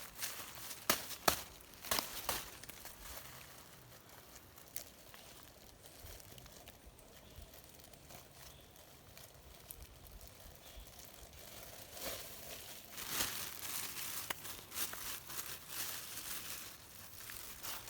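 Rustling and crackling handling noise with a few sharp clicks or snaps in the first couple of seconds, quieter through the middle, then louder rustling for several seconds near the end.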